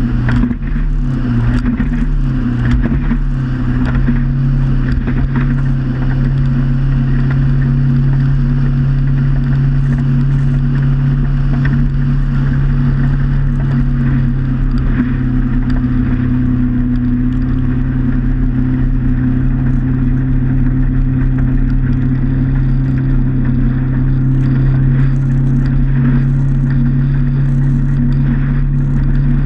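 Motorboat engine running steadily at cruising speed, with hiss from water and wind. Its pitch wavers briefly near the start, then holds steady.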